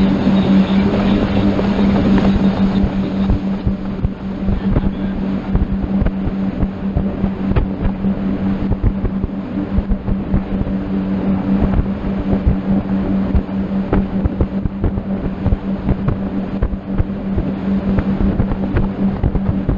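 Motorboat engine running steadily at cruising speed with one constant hum, over rushing wind buffeting the microphone.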